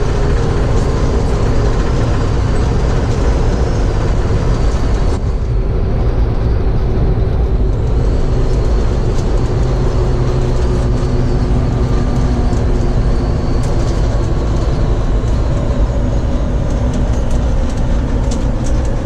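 Fire truck engine running and road rumble heard from inside the cab while the truck drives, with a steady engine drone and some sharp rattling clicks near the end.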